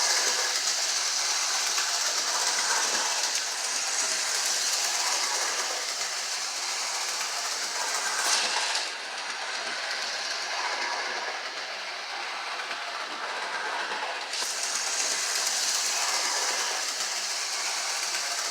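Lionel 'The General' O gauge 4-4-0 toy steam locomotive and tender running on track: a steady electric-motor whir with the wheels clicking over the rail joints. About a third of the way in there is a sharp click, and then the sound is duller for about five seconds before brightening again.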